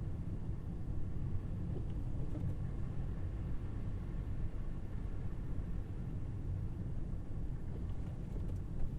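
Tesla Model Y electric SUV driving, with a steady low rumble of road and tyre noise.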